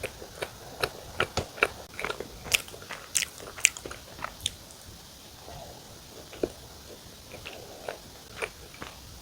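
Close-miked biting and chewing of mocha cream sandwich bread: a quick run of sharp, crisp mouth clicks and small crunches over the first four seconds or so, then fewer and more spaced out.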